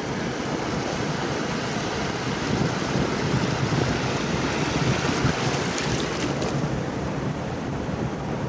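Sea surf washing steadily, with wind noise on the microphone.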